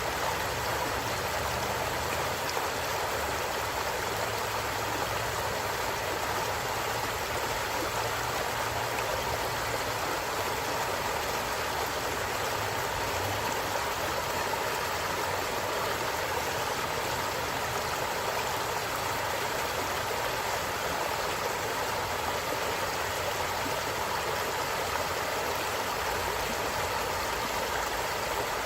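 Forest stream flowing steadily, an even rush of running water with no breaks or changes.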